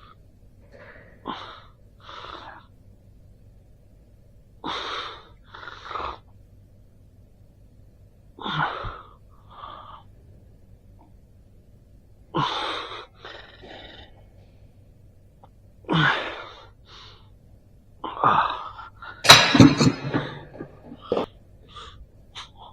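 A person's breathing in sharp, wheezy breaths and gasps, in short separate bursts every second or two, with a louder, longer burst near the end.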